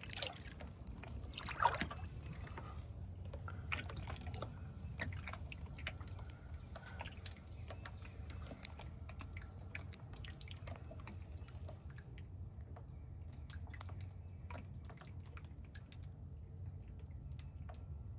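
Faint water dripping and trickling, many small irregular drips over a steady low background rumble.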